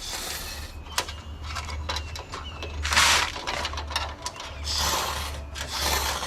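Aerosol can of black spray paint hissing out through a long extension tube fed into a panel's inner cavities, in two bursts: a loud short one about three seconds in and a longer, softer one near the end, with a few clicks from handling.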